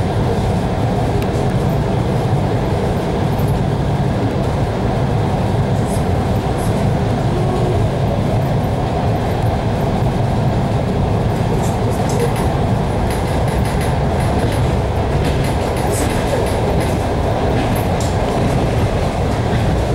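Suburban train running, heard from inside the passenger carriage: a steady rumble of wheels on rails, with a few brief sharp clicks scattered through it.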